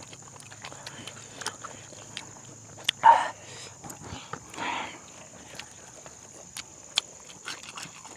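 Close-up eating sounds: chewing and lip-smacking with many small wet clicks, picked up by a clip-on microphone. Two brief voice sounds come about three and four and a half seconds in.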